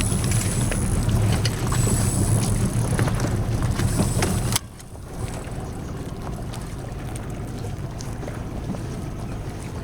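Wind and water noise from a boat under way, with a steady low rumble. About four and a half seconds in it drops suddenly to a quieter, even rush of wind and water.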